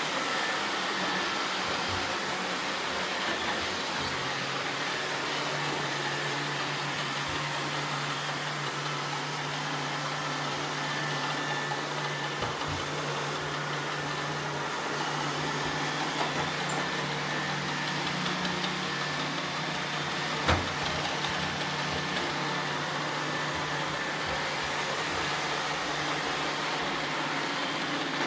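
Roomba robot vacuums running, a steady whir of their suction motors and brushes. A low hum joins about four seconds in, and there is one sharp knock about twenty seconds in.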